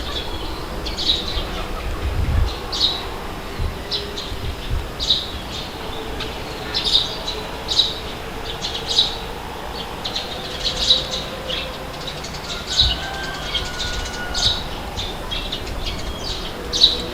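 Birds chirping in short high calls, one every second or so, over a steady background of outdoor noise with a few low thumps.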